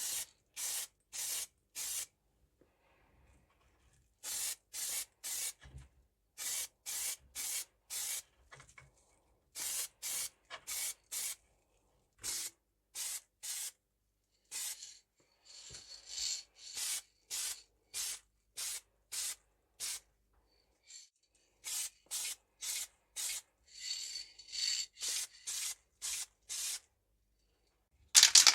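Steel scissor blade rubbed by hand against an abrasive in short, even strokes, about two a second. The strokes come in runs with brief pauses, a few of them longer and hissier.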